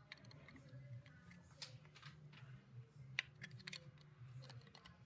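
Plastic LEGO pieces being handled and pressed together: a few sharp small clicks, the clearest about a second and a half in and around three seconds in, over a faint steady low hum.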